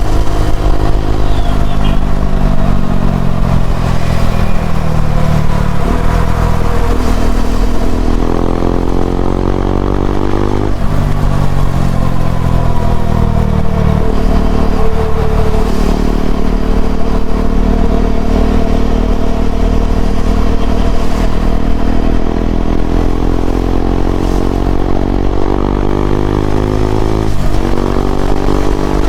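KTM Duke 390's single-cylinder engine through an Akrapovic slip-on exhaust, riding on the road. The revs climb and fall several times, with sudden drops in pitch at gear changes, and hold steady for a long stretch in the middle.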